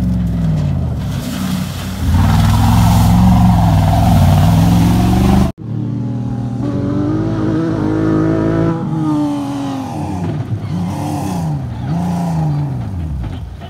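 Rally cars' engines revving hard, pitch climbing and dropping repeatedly through gear changes, in two separate passes with an abrupt break about five and a half seconds in.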